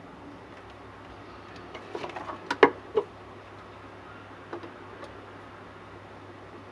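A quick run of clicks and knocks about two seconds in, the loudest a sharp knock near the middle, then a few faint ticks, over a steady low hum.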